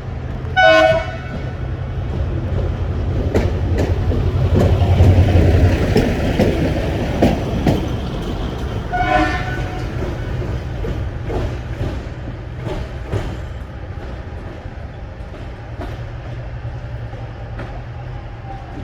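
Passenger train arriving, its locomotive horn giving two short toots about eight seconds apart. Between them a rising rumble of the train and wheel clicks over the rail joints.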